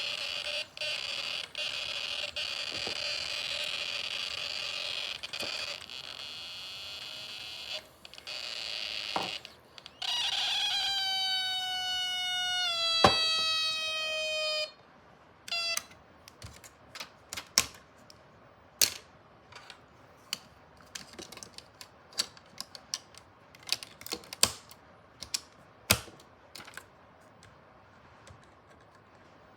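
High-pitched electrical whine from a Snap Circuits Classic circuit, cutting out briefly a few times, then a second pitched whine that slides slowly lower for about five seconds and stops abruptly. After that, scattered light clicks and taps.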